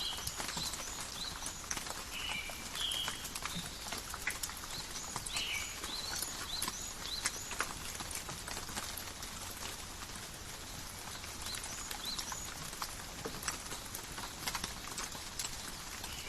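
Calm rain falling in a forest, a steady hiss with many individual drops ticking and dripping. Birds chirp briefly a few times, mostly in the first half.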